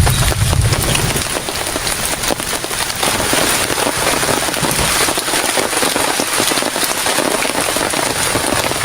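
Heavy rain falling, a dense patter of countless drops; a low rumble dies away in the first second.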